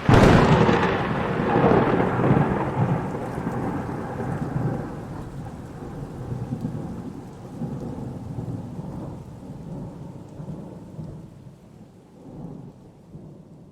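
A thunderclap: a sudden sharp crack followed by a long rolling rumble that swells again a couple of times and slowly dies away, with rain falling underneath.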